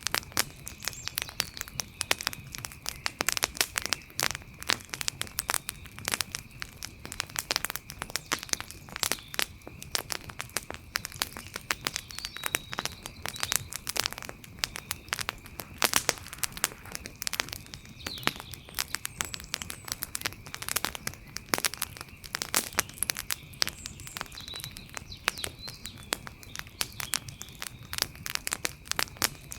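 Outdoor campfire crackling, with dense irregular pops and snaps of burning wood. A faint steady high tone and a few short chirps sit underneath.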